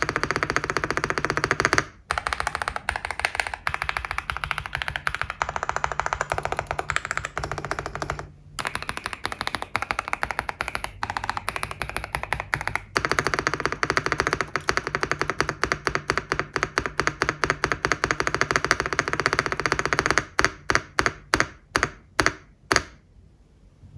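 Fast typing on a GMK67 mechanical keyboard with stock factory-lubed Vertex V One switches and ABS Cherry-profile keycaps: a dense run of deep "thock" keystrokes. Near the end the typing slows to single presses a few per second, then stops.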